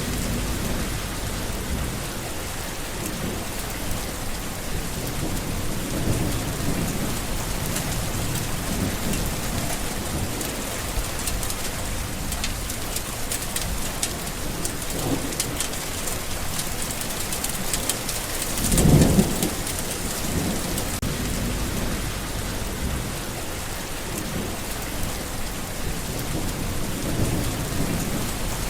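Steady rain pattering on surfaces, with low rolling rumbles of thunder underneath. The loudest rumble comes as a short swell about two-thirds of the way through.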